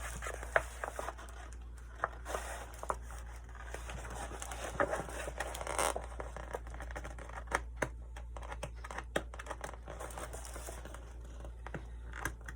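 A large plastic decal sticker sheet being handled, crinkling and rustling, with many small sharp clicks and crackles.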